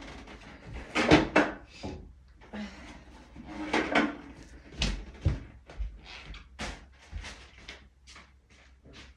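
A run of knocks and clatters from fridge parts and containers being handled and set down, with a door or cupboard bumping. The loudest clatters come about a second in and about four seconds in, followed by a quicker series of lighter clicks.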